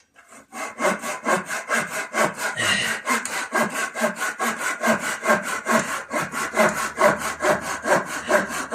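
Hand saw cutting through a piece of timber with quick, even back-and-forth strokes, about four a second, starting about half a second in.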